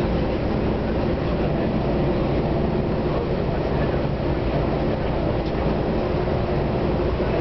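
Steady running noise of a moving train heard from inside the carriage, a constant low rumble with no breaks.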